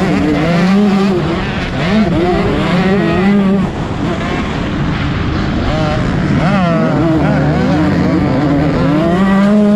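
Motocross bike engines revving hard, their pitch climbing, holding and dropping repeatedly as the riders work the throttle and shift gears.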